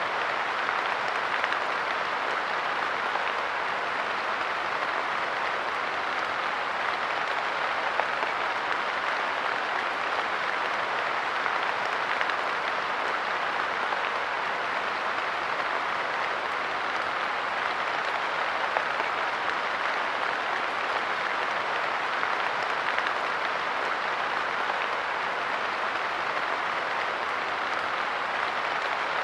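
Light rain falling steadily onto a park bench: an even hiss of drops with a few louder individual drops.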